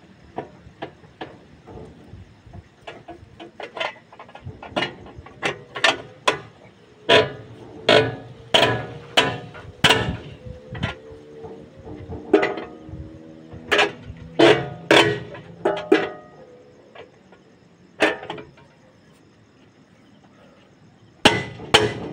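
Hammer blows on metal, each ringing briefly. They come in an irregular series that is thickest and loudest through the middle, go quiet for a few seconds, then return with two hard strikes near the end.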